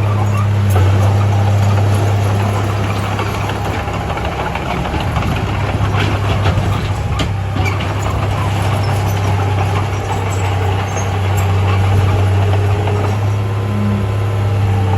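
Heavy diesel engine of earth-moving machinery running steadily with a low drone. It turns rougher and noisier for several seconds in the middle, then settles back to the steady drone.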